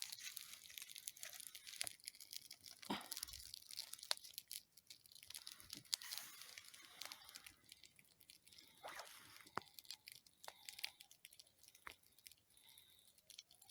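Faint, irregular tearing and snapping of dry wood as splinters are pulled off by hand.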